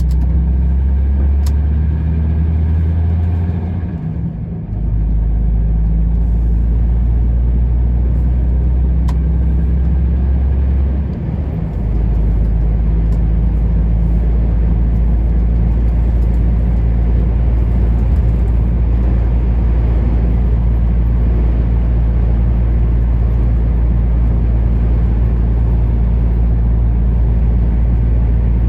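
Truck's diesel engine running steadily on the road, a loud low drone. The drone dips briefly and changes pitch twice, about four and about twelve seconds in, then holds steady.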